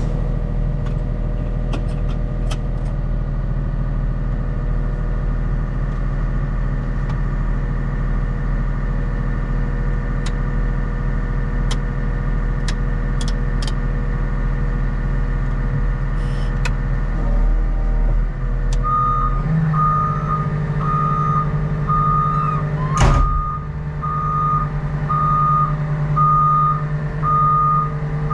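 CAT 926M wheel loader's diesel engine running steadily. About two thirds of the way through, the engine note changes and the loader's reversing alarm starts beeping about once a second as it backs up, with a loud knock partway through the beeping.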